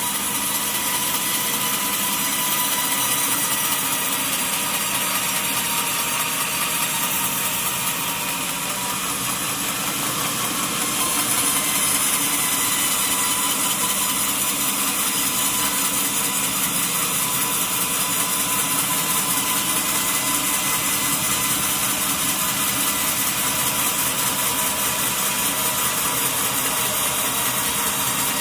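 Sawmill saw running through a log: a steady, hissing cut with a constant whine, easing slightly about eight seconds in and picking up again around twelve seconds.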